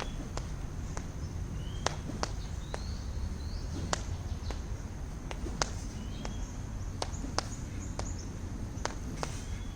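Sharp slaps of a training rope hitting the ground, irregular at about two a second, with short rising bird chirps and a steady low rumble beneath.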